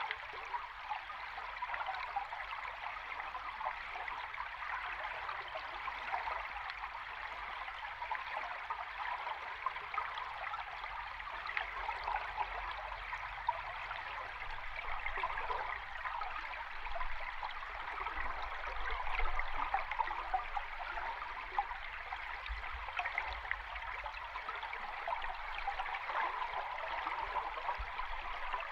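River stream water recorded underwater: a steady, dense rushing and bubbling, with a faint low rumble beneath.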